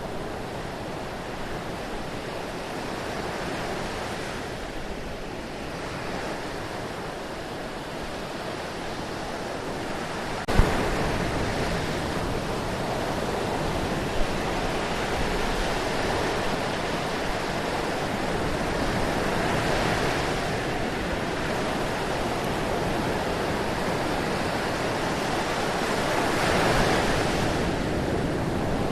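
Steady rushing of water, a continuous noise with slow swells. It jumps abruptly louder with a brief thump about a third of the way in, and there is a single small click a few seconds later.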